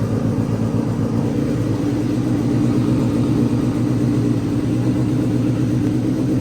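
2008 Yamaha FZ6's 600cc inline-four engine idling steadily.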